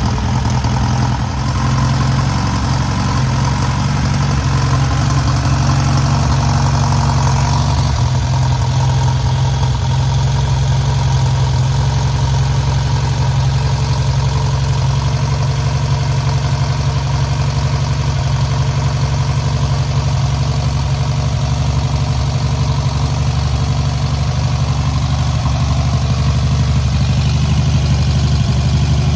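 Freshly rebuilt air-cooled VW 1600cc flat-four engine running steadily during its first run and break-in, easing slightly about eight seconds in.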